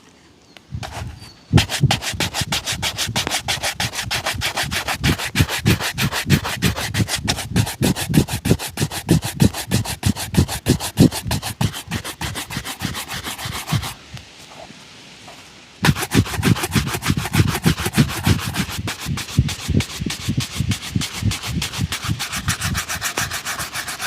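A shoe being buffed with brisk back-and-forth rubbing strokes, several strokes a second. The strokes stop for about two seconds past the middle, then start again.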